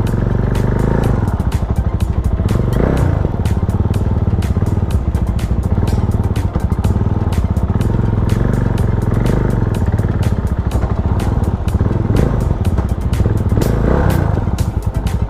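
Bristol Classic 400i's 397cc single-cylinder four-stroke engine running under way, swelling in pitch and loudness a few times as it revs.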